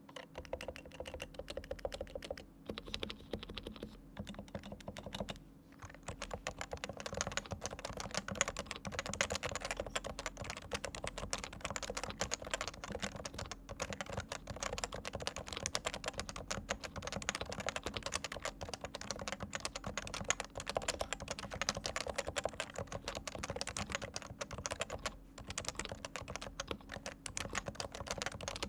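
Typing on a Leopold FC980C keyboard with fully lubricated Topre electrostatic capacitive switches: slower keystrokes with short pauses for the first six seconds or so, then fast, continuous typing.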